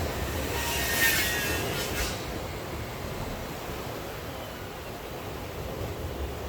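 Steady hiss of rain and surf, with a brief louder hissing swell about a second in.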